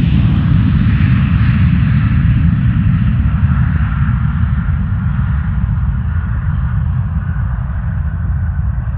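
Airplane engines running loud with a heavy low rumble as the plane passes, slowly fading, with a faint whine easing down in pitch.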